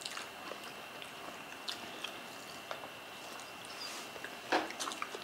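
Close-up mouth sounds of eating steamed fish by hand: soft chewing and small wet clicks, with one louder smack about four and a half seconds in as fingers are sucked.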